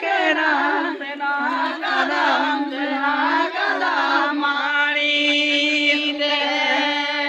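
Voices singing a Mundari Karam song in chant style. The melody moves for the first few seconds, then about halfway through it settles into one long held note.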